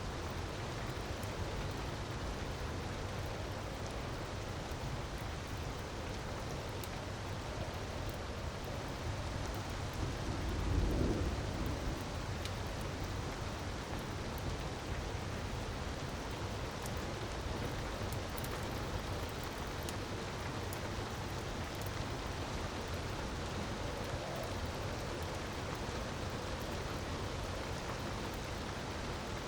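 Steady rushing water noise from a waterfall with faint crackles of a wood fire. About eleven seconds in, a low rumble swells up and dies away over a second or two.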